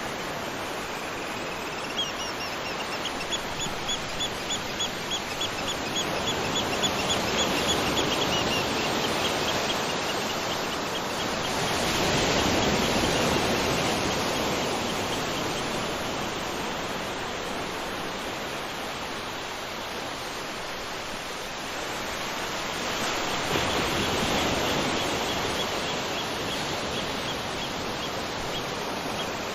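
Beach ambience: surf washing in and receding in slow swells. A bird calls over it in a quick run of repeated high notes, about four a second, early on and again near the end.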